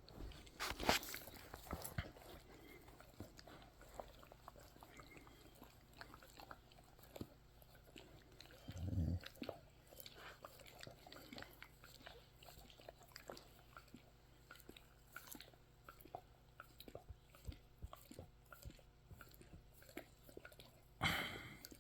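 A dog chewing and gnawing: faint, scattered clicks and crunches, with one short low sound about nine seconds in.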